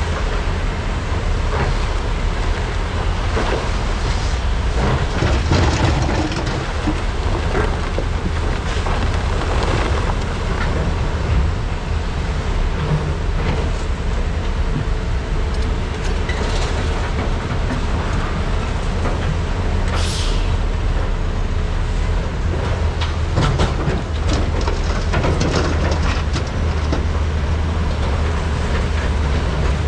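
Diesel engines of large hydraulic excavators (Komatsu PC395 and SANY SY485H) running steadily under load, a deep continuous rumble, with scattered knocks and clatter and one short hiss about twenty seconds in.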